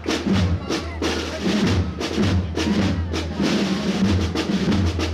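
Processional marching drums: snare drums rolling and beating over a steady bass drum pulse in a march rhythm.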